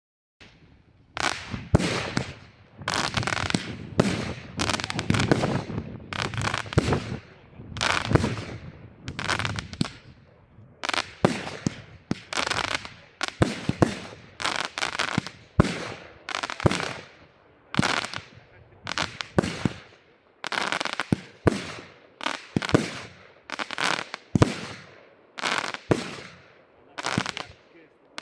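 Kanji AC30-25-F3 angled fireworks battery (25 shots, 30 mm calibre) firing, its shots going off one after another about once a second, each with a short fading tail. The firing starts about a second in.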